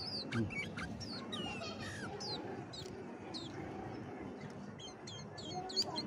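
Sooty-headed bulbul (kutilang) calling: a string of short, quick chirps and sliding notes, with a burst of rapid chirps near the end.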